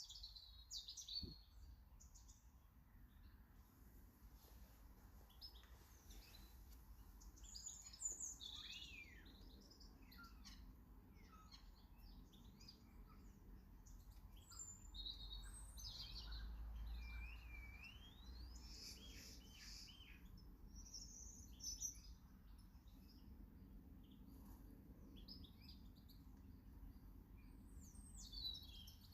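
Small garden birds chirping and calling: many short, varied chirps, trills and gliding whistles, faint, over a low rumble that swells briefly around the middle.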